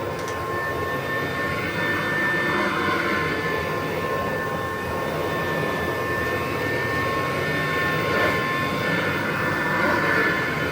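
1963 Kirby Sanitronic VII upright vacuum cleaner running on carpet: a steady motor whine with two high tones over a rushing noise, swelling and easing a little every few seconds.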